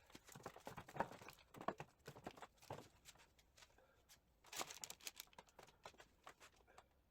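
Quiet, irregular clicks, clinks and small rattles of Triumph TR6 gearbox internals being worked by hand while trying to free a stuck shaft, with a denser flurry about four and a half seconds in.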